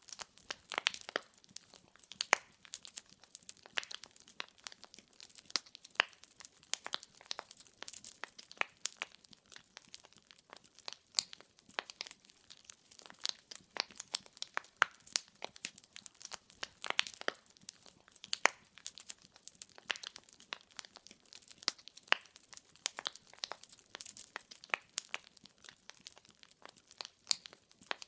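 Wood fire burning in a fireplace, the logs crackling with many irregular sharp pops and snaps over a soft hiss.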